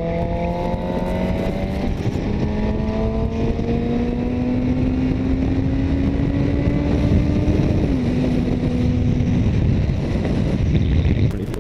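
Motorcycle engine pulling steadily higher in pitch under heavy wind rush. About eight seconds in the pitch steps down as it shifts up a gear, and soon after the engine tone fades into the wind.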